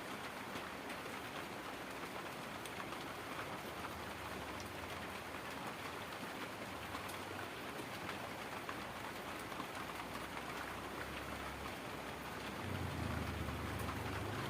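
Heavy rain falling steadily, a dense hiss of many small drop ticks. Near the end a low rumble comes in under the rain and the overall level rises.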